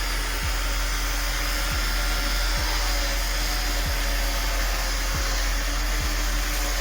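Steady rushing noise at an even level, with a faint steady hum and a soft low thump roughly once a second.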